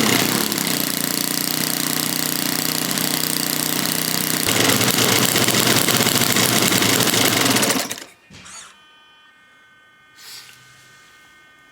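20cc four-stroke glow (nitro) model airplane engine turning a 15x8 propeller, running loud and fast and getting louder about four and a half seconds in. It cuts out about eight seconds in, leaving only faint steady tones.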